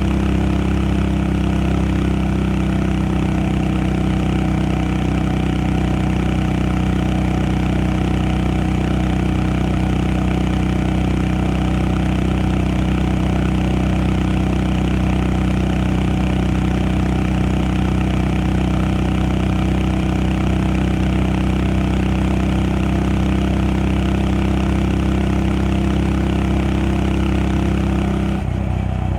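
Honda Monkey 125's single-cylinder four-stroke engine running at a steady, unchanging engine speed. Just before the end the sound briefly dips and shifts.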